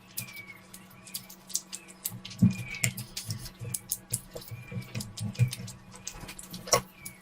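Close-miked eating: wet chewing and lip-smacking, many quick irregular clicks with soft low thuds from a few seconds in.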